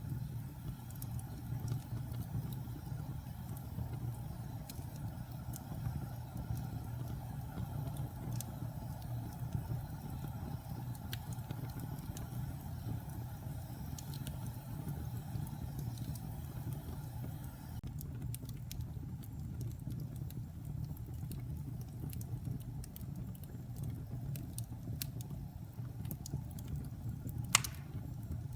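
Wood fire burning in a fireplace: a steady low rumble with scattered small crackles and one sharp pop near the end.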